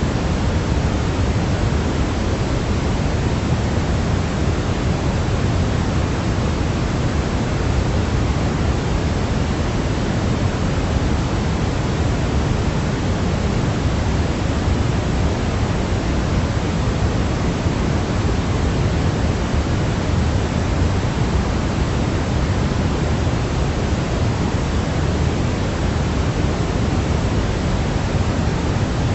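Steady, unchanging noise played for baby sleep, weighted toward the low end like pink noise rather than a bright hiss.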